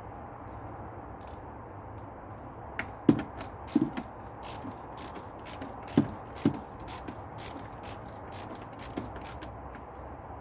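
Socket ratchet clicking in a run of sharp clicks, about two a second, starting about three seconds in, as the oil filter housing cap is tightened down.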